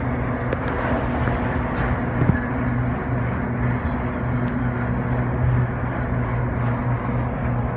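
Airport people-mover tram running along its guideway, heard from inside the car: a steady low hum and rumble, with one short knock about two seconds in.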